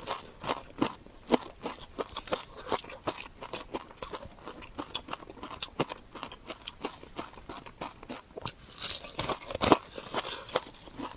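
Close-miked crunching and chewing of crisp food: irregular crackly bites and chews, with one loud crunch about nine and a half seconds in.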